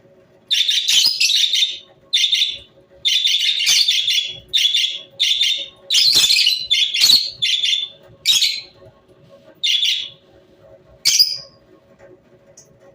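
A pet parrot calling: a run of about a dozen high-pitched, harsh chirping calls, each under a second long, with short pauses between them.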